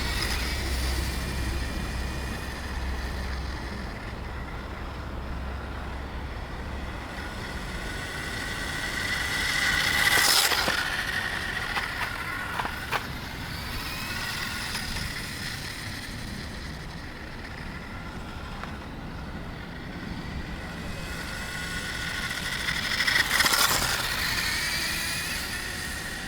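Electric RC motorcycle's brushless motor whining as it is driven around, its pitch rising and falling with throttle. It grows loud as the bike passes close, about ten seconds in and again near the end.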